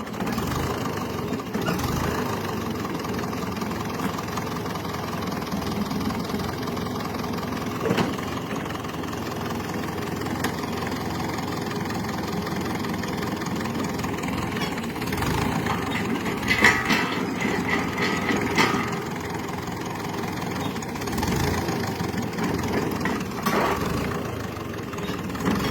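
Grey Ferguson tractor engine running steadily under load as it tries to drag out a big tree stump, with a few sharp knocks and clicks partway through.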